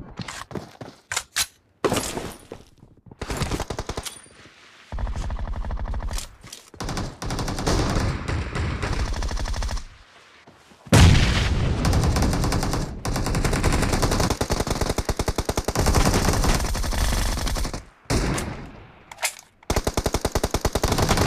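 Video-game automatic gunfire: rapid bursts of machine-gun fire broken by short pauses, with a long, sustained burst starting about halfway through.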